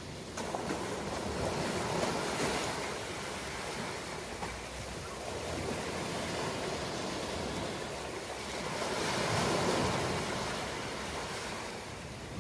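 Ocean surf: a continuous rush of waves that swells and eases, with the biggest surge about three-quarters of the way through.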